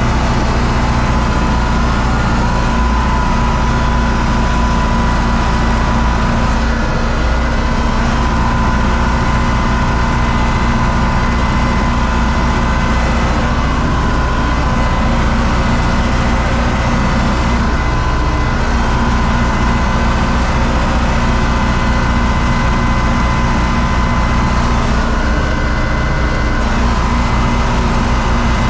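U650 tractor's four-cylinder diesel engine running steadily, with a steady high whine over it.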